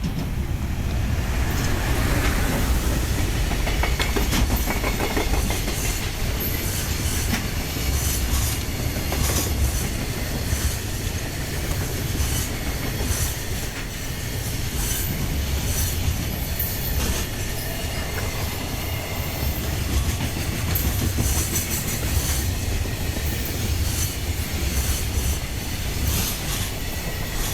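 A long freight train passing through a station at speed: a steady rumble of wheels on rails with a run of clicks as the wagon wheels cross the rail joints, and some wheel squeal.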